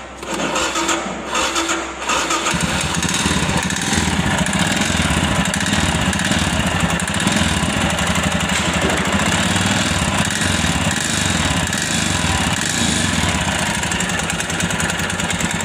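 Royal Enfield Himalayan motorcycle's single-cylinder engine started about two seconds in, then idling steadily. It is running with the strange noise from inside the engine that the bike was brought in for, which the mechanic says needs the engine opened to diagnose.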